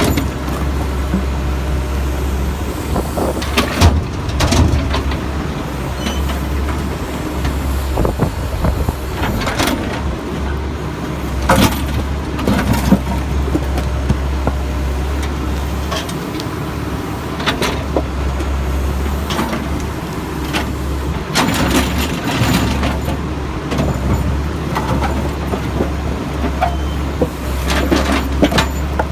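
Backhoe's diesel engine running steadily, with scattered clanks and crashes of broken concrete and a metal bucket as the concrete is scooped and loaded into a dump truck.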